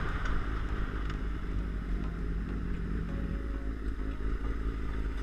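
Motorcycle engine running steadily at low revs, with a low, even hum.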